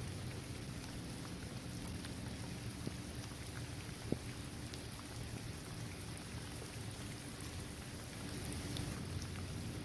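Steady rain falling on a hard basketball court, trees and grass, with scattered individual drops ticking and one sharper drip about four seconds in.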